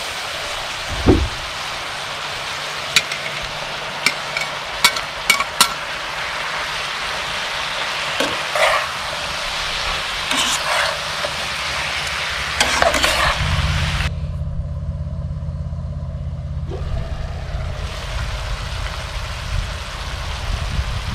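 Cabbage, carrots, pineapple and chicken hearts sizzling in a hot skillet on a grill, stirred with a slotted metal spatula that clicks and scrapes against the pan several times. For a few seconds past the middle the sizzle fades under a low rumble, then comes back.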